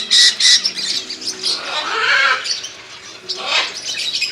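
Caged pet birds in a bird shop, parrots and smaller birds such as cockatiels and finches, chirping and squawking: a few loud, shrill calls come one after another over a low hum.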